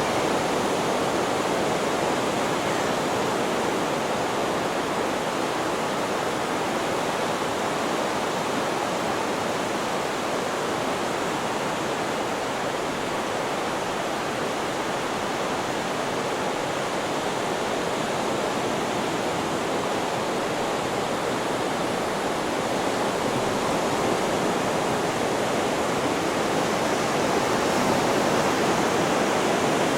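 Steady, even rushing noise with no breaks or swells: a white-noise sleep track blended with ocean sounds.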